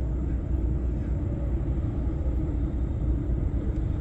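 Steady low drone of a truck's engine and road noise while driving along at an even pace.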